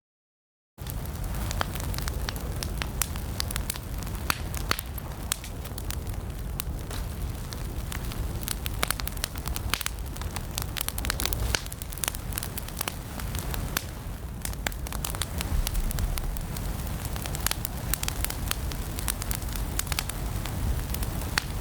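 Fireplace fire crackling: frequent irregular sharp pops and snaps over a low, steady rumble of the flames. The sound cuts out completely for under a second right at the start, then resumes.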